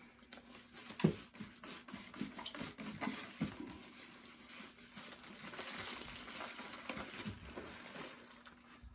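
Rustling of cardboard and packaging with small irregular knocks and clicks as a boxed model train car is handled and unpacked.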